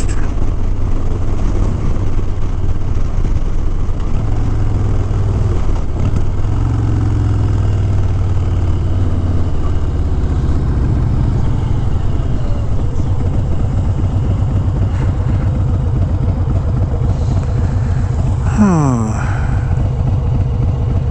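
Harley-Davidson Sport Glide's V-twin engine running steadily under way, a pulsing low rumble. Near the end a brief whine falls steeply in pitch.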